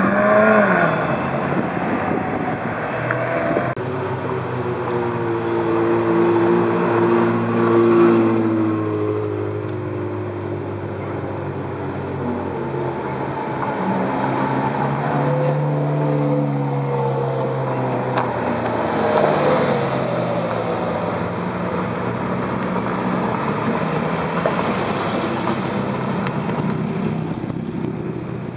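A line of Ferrari sports cars, among them a 458 Italia and a 308, driving past one after another. Their engines rev and accelerate in turn, each note rising and then falling away as the car passes.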